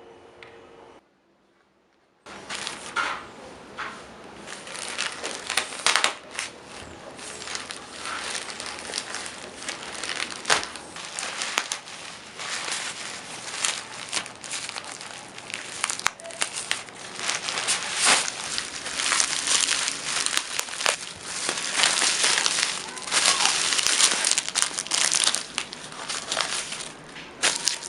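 Packaging crinkling and rustling as it is handled and opened by hand, with many small crackles and clicks. It starts suddenly after a brief silence about two seconds in.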